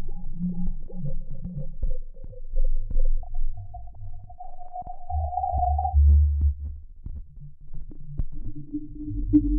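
Synthesized sound-effect drone: held electronic tones over a distorted sub-bass rumble. The tone steps up in pitch about three seconds in, the bass swells heavily around five seconds, then dies back, and a new lower tone enters near the end.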